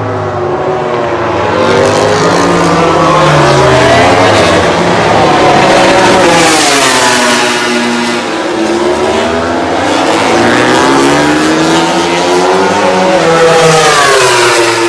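MotoGP race motorcycles running on the circuit, loud, their engine notes rising and falling in pitch as they accelerate and pass, with more than one bike heard at once.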